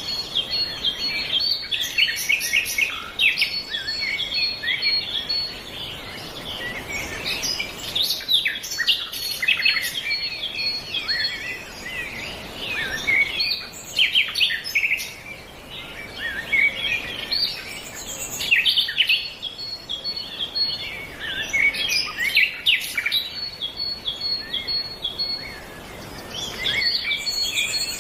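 Many small birds chirping and twittering at once, a dense, continuous chorus of short overlapping calls. A thin, fast-repeated high note joins in now and then.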